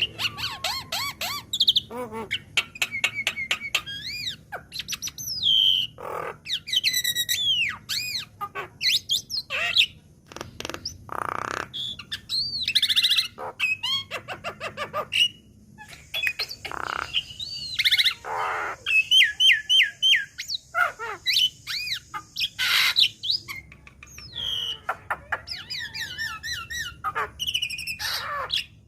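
Javan myna singing: a fast, varied run of whistles that glide up and down, rapid clicking notes and harsh squawks, with short pauses between phrases.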